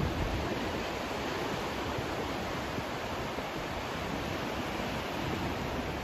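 Steady white noise: an even, unbroken hiss and rush with a low rumble beneath it.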